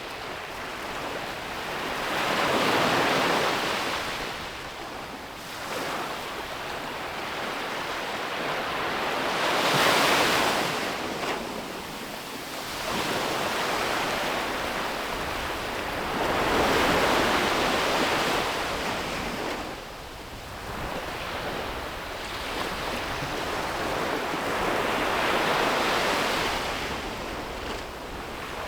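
Ocean waves breaking and washing up a beach, in slow swells that come about every seven seconds, with a light rush of wind.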